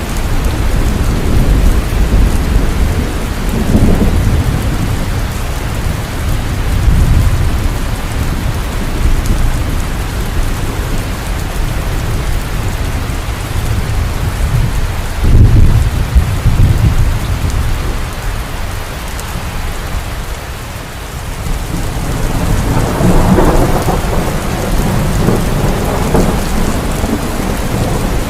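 Heavy rain falling steadily, with thunder rumbling low beneath it. The thunder swells in several waves, most strongly about halfway through and again near the end.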